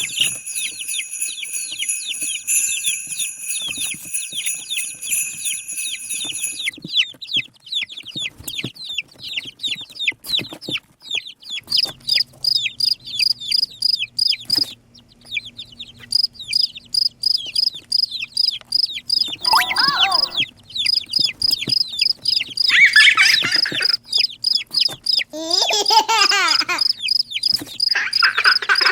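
Chickens calling: rapid high chick peeps at first, with jingle bells ringing for the first six seconds. Then a steady pulsing insect-like chirping, over which louder hen or rooster calls come four times.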